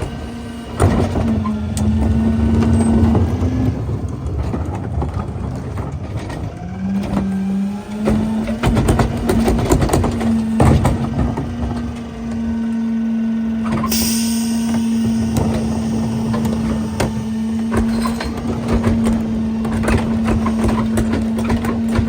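Heil PowerTrak rear-loader garbage truck's hydraulic packer running on a natural-gas engine, with a steady whine under many cracks, knocks and crunches as heavy trash is compacted. A short burst of air hiss comes about two-thirds of the way through.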